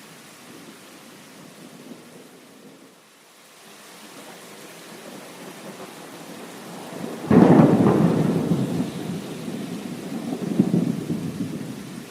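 Steady heavy rain with a sudden loud clap of thunder about seven seconds in, which rolls on, swells again a few seconds later and fades.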